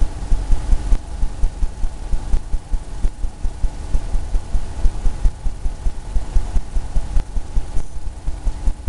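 Rapid, uneven low thumping, several beats a second, from a brush dabbing and scrubbing paint onto a canvas and knocking through the easel, over a faint steady hum.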